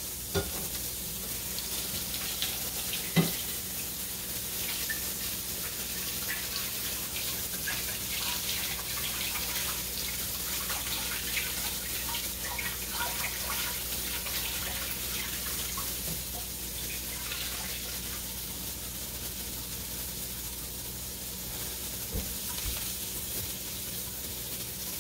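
Flour-dredged cube steaks frying in a skillet: a steady sizzle with fine crackling, and a single sharp knock about three seconds in.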